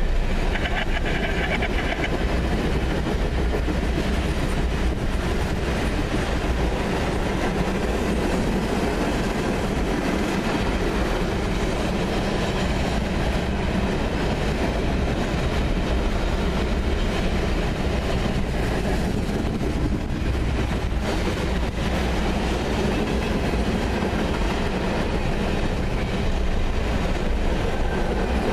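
Freight train cars, steel gondolas and a covered hopper, rolling past: a steady rumble of wheels on rail with scattered clicks as the wheels pass over the rail, heard from inside a car.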